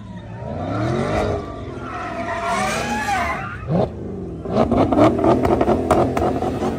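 Dodge Charger's engine revving hard, its pitch rising and falling repeatedly, as the car slides through a smoky donut spinning its rear tyres. A sharp rev climbs just before the middle, then the engine runs in a loud, choppy stretch near the end.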